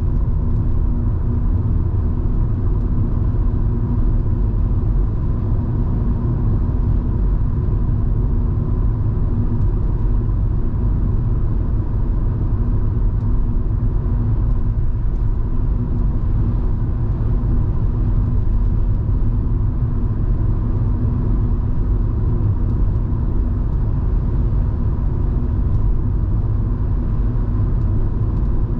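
Interior noise of a Volvo V70 2.5T at a steady cruise: a low, even rumble of the turbocharged five-cylinder engine and tyres on the road, with no change in pitch.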